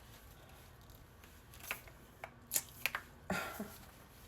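A few sharp clicks and rustles of a small plastic perfume case being squeezed and handled while someone tries to open it, starting about a second and a half in.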